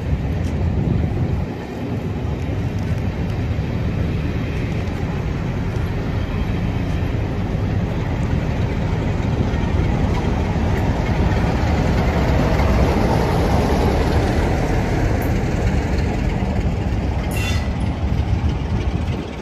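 Passenger coaches rolling past on the rails with clickety-clack of the wheels, then the rear Class 47 diesel locomotive going by about ten seconds in, its sound swelling and then fading as the train moves away. A single sharp click near the end.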